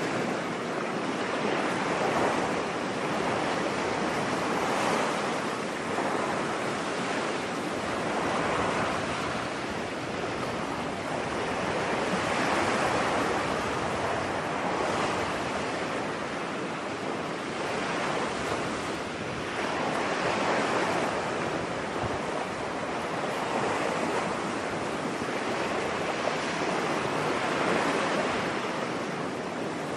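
Ocean surf on a beach: a continuous wash of breaking waves that swells and eases every few seconds.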